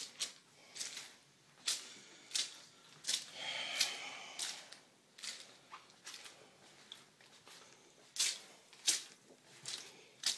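Footsteps on flood-soaked carpet at a walking pace, about one step every 0.7 seconds, with a few seconds of softer, irregular steps in the middle.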